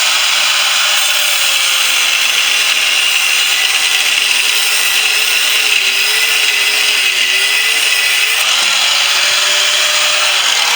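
Angle grinder cutting through the steel shell of a refrigerator compressor. It runs continuously with a steady, loud grinding hiss, and its motor pitch wavers and dips as the wheel is pressed into the metal.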